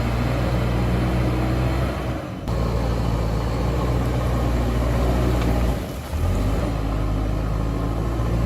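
JCB backhoe loader's diesel engine running steadily under work, dipping briefly twice, about two seconds in and again near six seconds.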